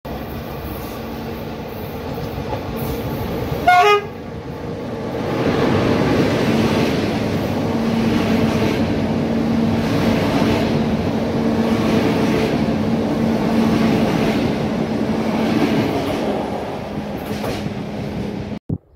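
Passenger train passing close by: one short, loud horn blast about four seconds in, then the louder running noise of the coaches with a rhythmic clatter of wheels and a steady hum underneath. The sound cuts off abruptly near the end.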